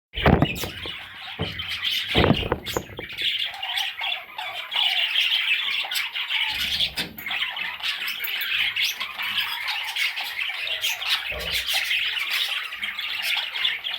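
Budgerigar chattering and warbling without a break, with scratchy squawks and clicks mixed in. A few dull thumps come at the start, about two seconds in, and again later.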